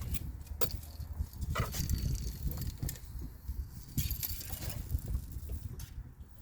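Fishing reel and tackle clicking and rattling at irregular moments while a hooked fish, a walleye, is fought from a boat, over a steady low rumble of wind on the microphone.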